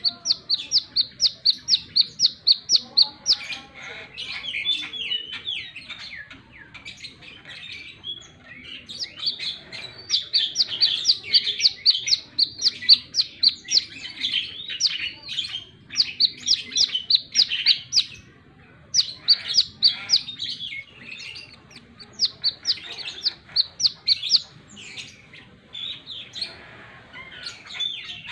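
Brown-throated sunbird singing: bursts of rapid, sharp, high notes at about five or six a second, each burst lasting a few seconds, alternating with lower, jumbled chattering phrases.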